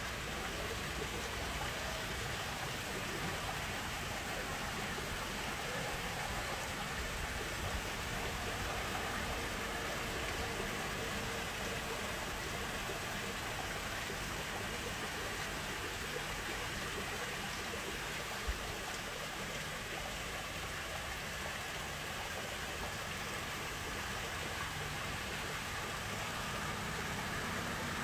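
Steady rushing noise with no clear pitch, like flowing water, broken once by a single sharp click about two-thirds of the way through.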